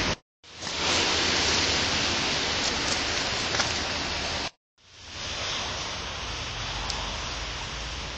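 Steady hiss of falling rain. It cuts out completely twice for a fraction of a second, just after the start and about four and a half seconds in, and fades back in each time.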